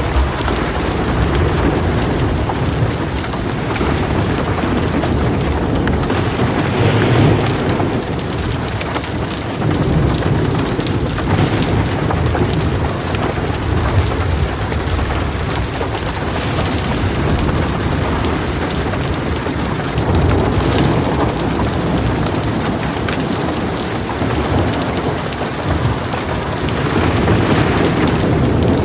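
Heavy rain falling steadily on a metal roof, with low rolling thunder that swells and fades several times.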